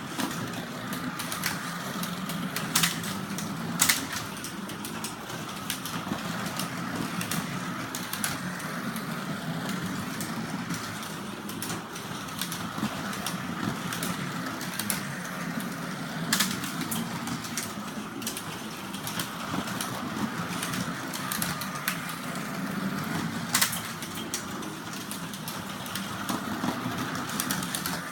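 Carrera slot cars running on the track, their small electric motors whirring steadily, with scattered sharp clacks, several standing out loudly.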